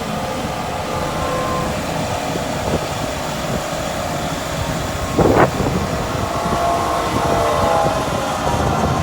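Heavy farm machinery running steadily, an engine with a steady hum, with one short loud burst about five seconds in.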